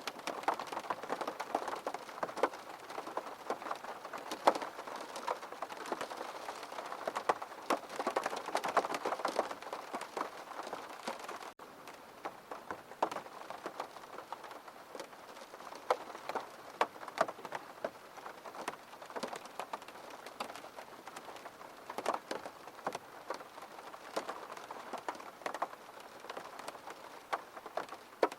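Steady rain falling on a surface, with many distinct drops ticking through a soft hiss. About a third of the way through it abruptly becomes quieter and carries on at the lower level.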